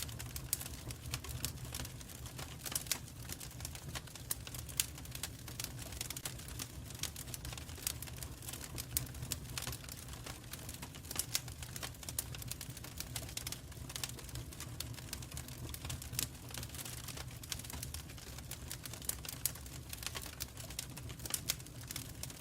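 Wood fire burning in a fireplace: steady crackling with irregular sharp pops over a low, constant rumble.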